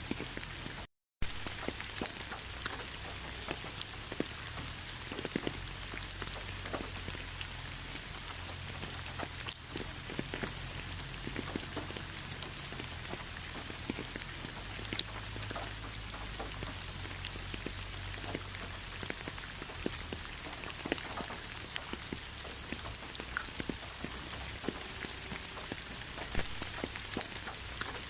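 Steady rain falling on a surface, with many distinct drop impacts ticking through it. The sound cuts out completely for a split second about a second in.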